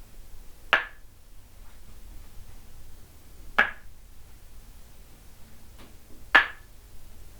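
Tok sen wooden mallet striking a wooden stake held against the body: three sharp knocks, each about three seconds apart.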